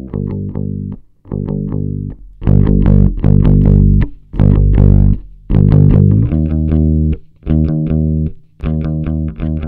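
Recorded electric guitar and bass part played back through a Pultec tube equalizer as a demonstration: phrases of plucked, sustained low notes and chords. From about six seconds in it becomes a regular chopped rhythm of short notes, about three every two seconds.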